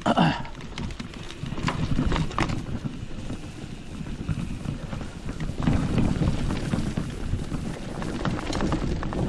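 Footsteps crunching and scuffing irregularly on a hiking trail, over a low rumble of wind on the microphone.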